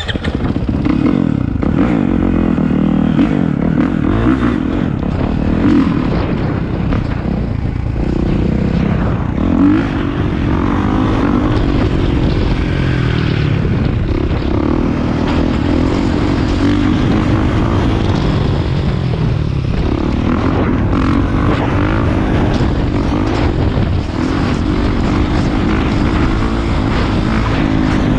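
Dirt bike engine running loud and close, its pitch rising and falling as it is revved, with the sound jumping up in level right at the start.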